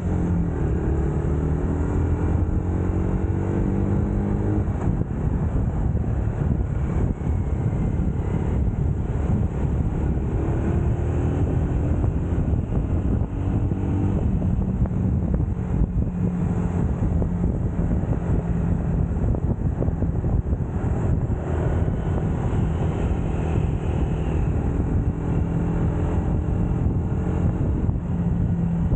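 UM Scrambler X motorcycle engine running under way, its note rising and falling with throttle and gear changes, over a steady rush of wind and road noise.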